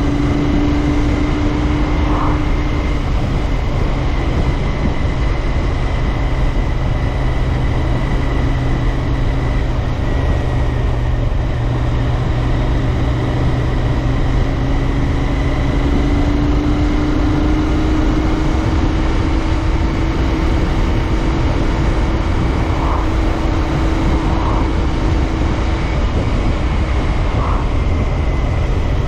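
Royal Enfield Interceptor 650's parallel-twin engine running steadily under way, with a dense low rumble of road and wind noise; the engine note rises a little about halfway through, then holds.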